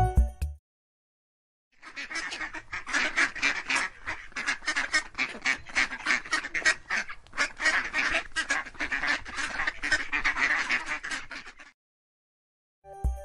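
Ducks quacking in a rapid, overlapping chatter of many calls, starting about two seconds in and stopping shortly before the end.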